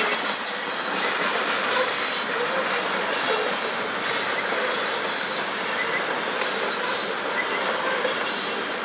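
Freight train of covered hopper cars rolling past: a steady rush of steel wheels on rail, with faint brief wheel squeals.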